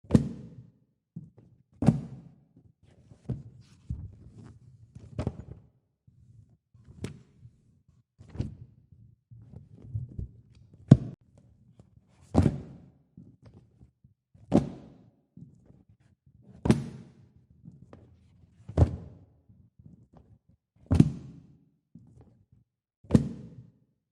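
Paper pages of a coloring book being turned one after another, each landing with a sharp soft thump about every two seconds, with quieter rustling and handling between turns.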